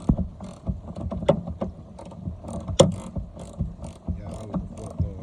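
Hand ratchet wrench clicking in short back-and-forth strokes on the truck's bolts, with a couple of sharper metal knocks.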